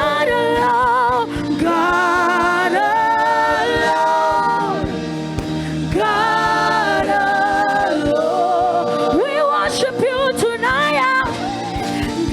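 Gospel worship singing: voices holding long notes with vibrato over a steady accompaniment with a beat.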